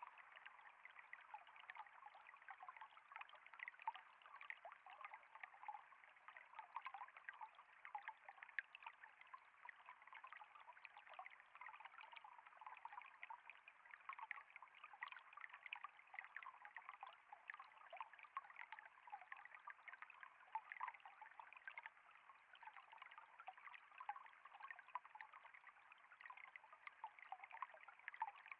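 Water trickling and flowing steadily, faint, with a constant patter of tiny splashes.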